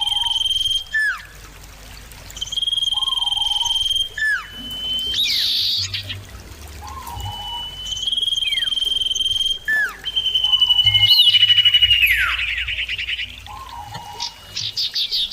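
Common iora singing: long, level, high whistles, each followed by quick down-slurred notes, repeated about four times, with a fast run of short notes near the end.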